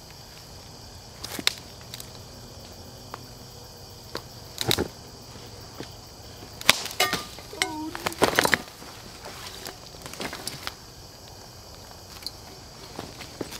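A steady high insect drone, with scattered sharp crackles and rustles that bunch up about halfway through, and a short falling squeak in the middle of that cluster.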